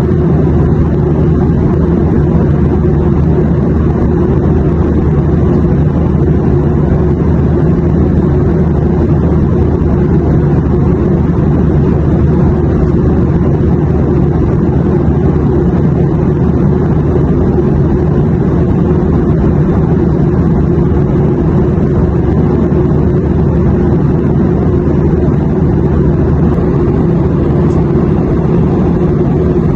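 Steady drone of an airplane in flight: an even, unbroken low rumble with little high end.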